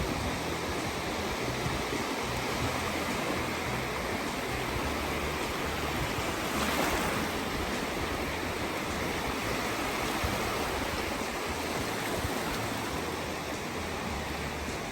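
Small sea waves washing in the shallows: a steady hiss of surf that swells slightly about seven seconds in.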